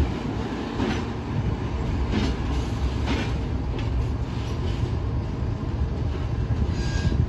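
Freight train rolling past: a steady low rumble of the wagons, with sharp knocks from the wheels striking rail joints every second or so.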